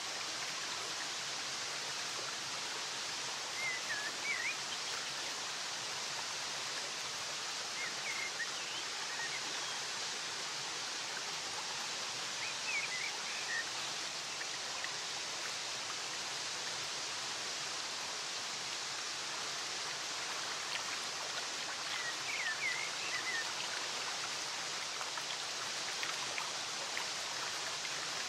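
Steady rush of flowing stream water, with faint short bird chirps in small clusters every few seconds over it.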